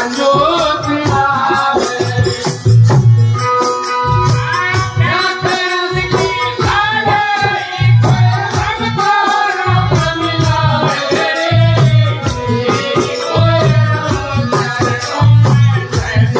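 Devotional bhajan sung by a man, accompanied by a hand drum beating a steady rhythm and jingling percussion.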